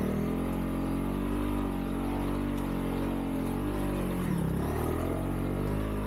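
Honda CRF300L's single-cylinder engine running as the motorcycle is ridden, its note rising and falling a little with the throttle.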